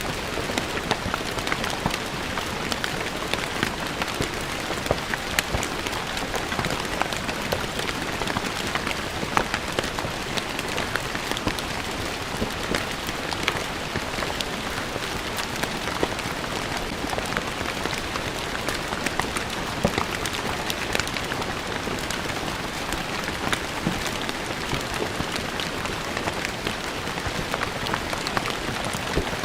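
Steady rain falling on a stone floor, a dense even hiss with many separate drops splashing and ticking on the stone.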